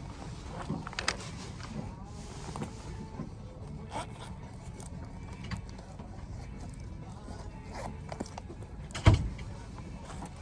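Scattered light clicks and knocks over a low steady hum, with one loud thump about nine seconds in.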